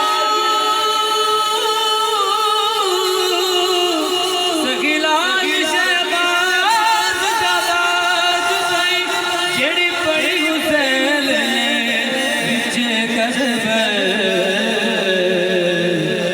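Male voice singing a naat, a devotional Islamic song, in long drawn-out phrases with ornamented, wavering held notes.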